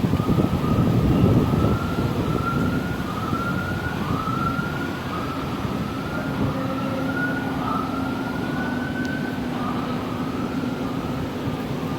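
A siren wailing up and down in pitch about once a second, over steady wind buffeting the microphone.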